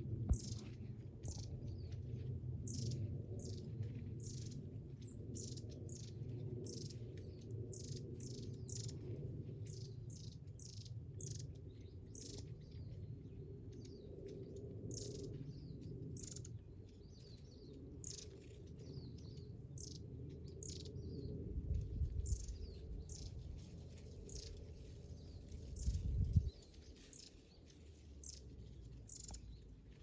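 Wild birds calling from a thicket: a quick, steady series of short, high chirps, each sweeping downward, one or two a second. A low rumble sits beneath them and swells briefly twice in the last third.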